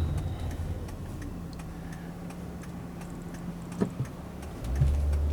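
Car engine and road noise heard from inside the cabin, with a turn-signal indicator ticking steadily over it; the low rumble swells near the end as the car speeds up.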